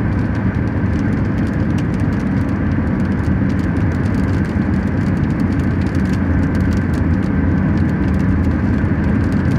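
Steady road and engine noise of a car driving, heard from inside the cabin, a continuous low rumble with faint scattered ticks.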